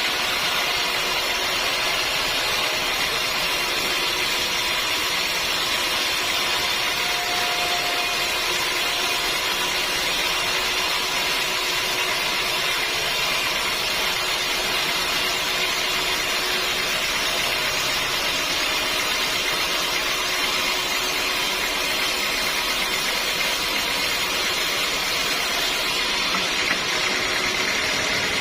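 Sawmill saw running steadily: an even, unbroken hiss with faint steady whines over it and no change in pace.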